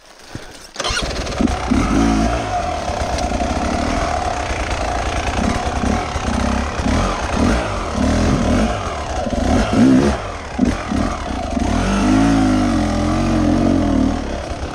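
Enduro motorcycle engine, which comes in suddenly about a second in and then runs with repeated blips of the throttle, its pitch rising and falling.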